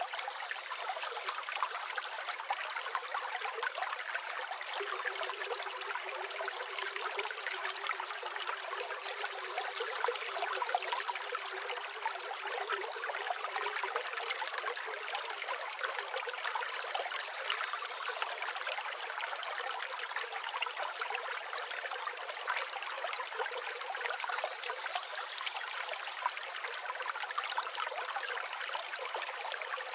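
River or stream water flowing over rocks, a steady, even babbling rush with no low rumble.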